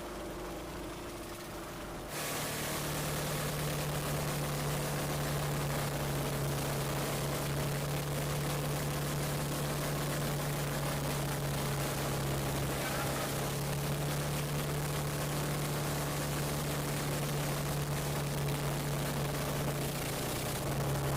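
Engine of a motorized fishing bangka running at a steady speed, a constant low hum under a broad hiss of wind and water. About two seconds in the sound jumps abruptly louder and brighter, then holds steady.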